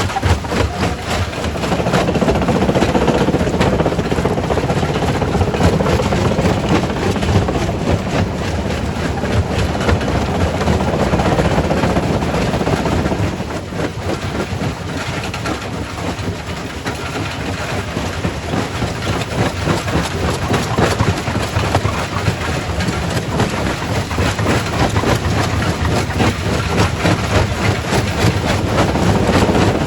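Quarry primary rock crusher running, rocks clattering and grinding in it with many overlapping knocks over a heavy mechanical rumble. It eases off a little about halfway through, then builds up again.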